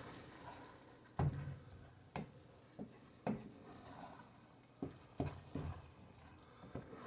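A utensil stirring food in a skillet, knocking sharply against the pan about seven times at uneven intervals, over a faint sizzle of frying.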